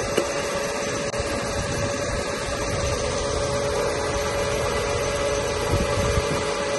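A motor running at a steady speed: an even whirring hiss with a constant mid-pitched whine, starting and stopping abruptly.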